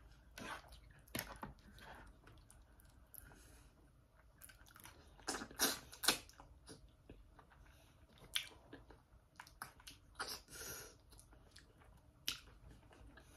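A person eating fufu with okra soup: irregular chewing, mouth clicks and smacks, the loudest cluster about five to six seconds in.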